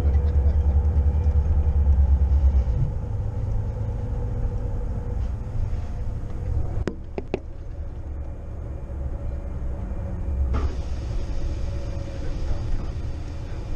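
Shuttle bus engine running, heard from inside the bus as a low, pulsing rumble that is heavier for the first few seconds and then eases. A few sharp clicks come about halfway through, and a steady hiss joins near the end.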